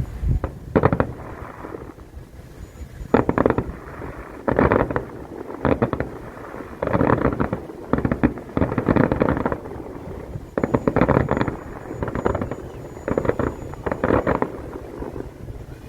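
Fireworks going off in repeated volleys of rapid pops and crackles, about a dozen clusters, some single and some running for about a second.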